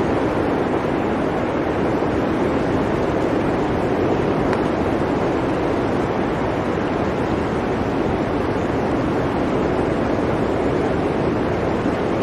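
Blizzard wind blowing steadily: a dense, even rushing noise with no let-up.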